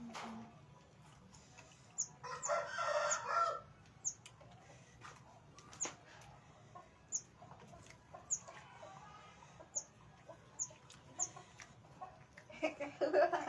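A rooster crows once, about two seconds in, and gives another call near the end. Short, high bird chirps repeat every second or so between the calls.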